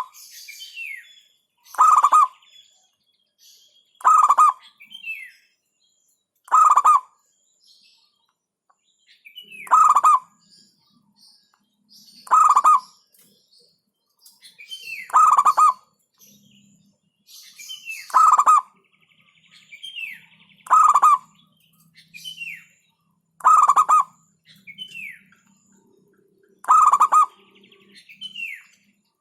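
Zebra dove (perkutut) singing, a loud call repeated about every two and a half seconds, with faint short high chirps in between.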